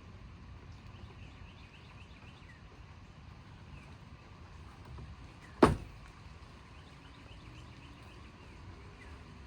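Low, steady rumble of distant thunder with faint short chirps over it. One sharp knock about halfway through, far louder than anything else.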